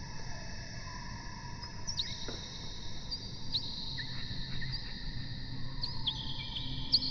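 Small birds chirping, short quick downward-sliding calls scattered irregularly, over several long, steady high ringing tones that overlap and change pitch every few seconds.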